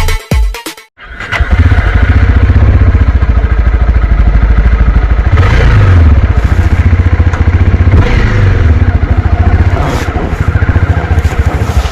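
Intro music cuts off in the first second. About a second in, a Honda CB300R's single-cylinder engine comes in loud and runs through to the end, its revs rising and falling a couple of times.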